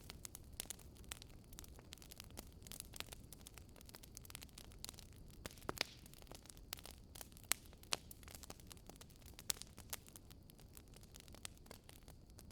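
Campfire crackling: irregular sharp pops and snaps of burning wood, several a second, over a faint steady low rumble of the fire.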